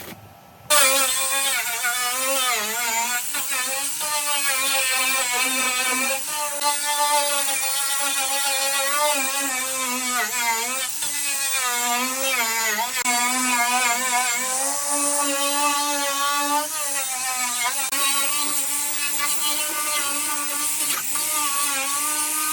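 Electric power tool motor starting suddenly and running with a whine, its pitch wavering and dipping as it is pressed into the work.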